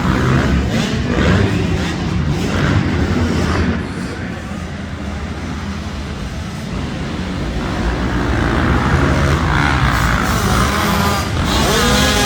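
Motocross dirt bike engines running and revving as the bikes race around the track. The revs rise and fall more sharply near the end.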